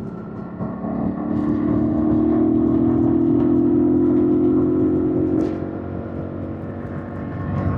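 2025 Yamaha MT-07's 689 cc parallel-twin engine accelerating, its exhaust note swelling and climbing slowly in pitch for about four seconds, then falling away; it picks up again near the end.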